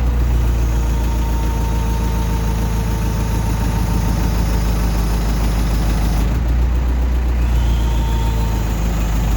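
Backhoe's diesel engine running steadily while the loader works pallet forks to pick up a pallet, with a steady whine over the engine until about six seconds in.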